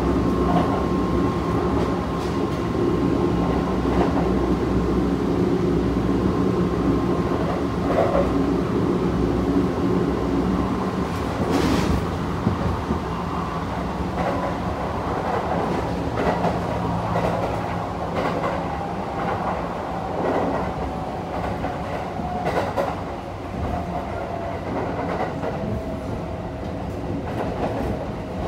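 Kintetsu 1233-series electric train heard from inside the car while running: wheel and rail rumble under a thin VVVF inverter and traction-motor whine that slowly falls in pitch as the train slows. There is one sharp clack about twelve seconds in.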